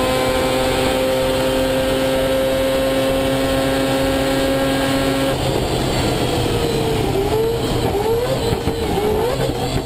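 High-performance car engine held at steady high revs for about five seconds, then its pitch rises and falls several times as the revs change.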